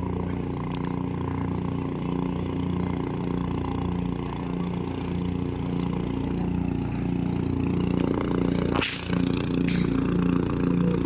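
Helicopter running close by: a steady rotor throb with a pulsing engine drone. A short sharp knock comes about nine seconds in.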